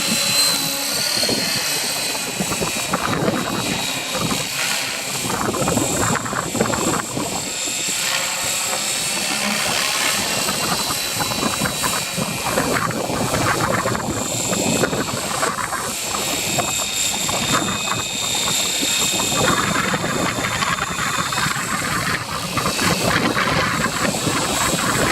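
Align T-REX 550 electric RC helicopter hovering and flying, with a steady high whine from its motor and gears over the rotor noise. Gusts of wind buffet the microphone.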